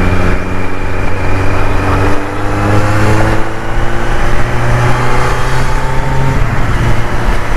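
Kawasaki Z900's inline-four engine through an Arrow aftermarket exhaust, pulling steadily under way as the bike accelerates, its pitch rising slowly for about six seconds before levelling off.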